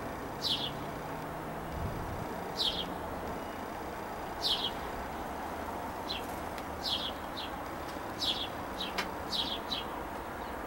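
A bird's short, high calls, each sliding down in pitch, repeated about ten times and coming faster in the second half.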